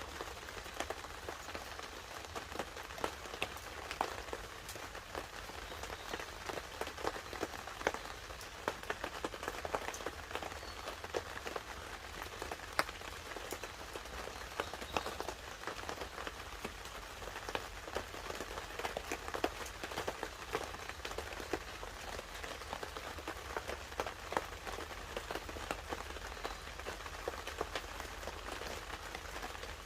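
Light rain pattering on a tarp while a wood campfire crackles, a steady patter dotted with many irregular sharp pops and clicks.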